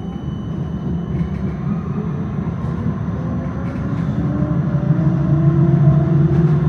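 Electric tram accelerating: the traction motor whine climbs steadily in pitch over a low rumble of wheels on rails, and it all grows louder.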